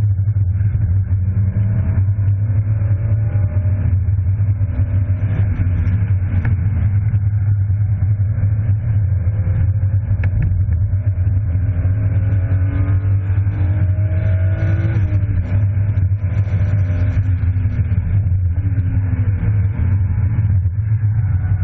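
BMW E36 325i's straight-six engine heard from inside the cabin on track, its note rising and falling with the throttle through the corners and dropping sharply about fifteen seconds in, over a steady low drone.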